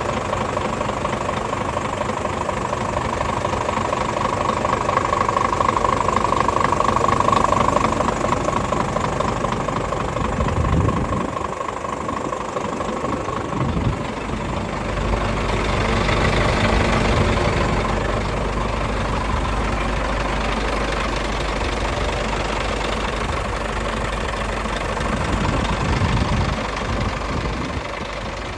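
Scania R440 truck's six-cylinder diesel engine idling steadily, its low note shifting a little about halfway through.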